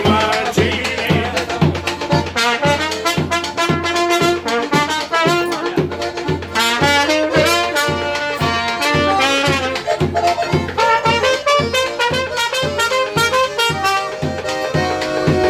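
Trumpet playing a jazzy melody over a steady low beat.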